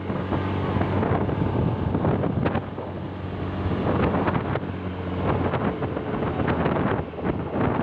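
Vehicle engine running steadily on the move, with heavy wind buffeting the microphone.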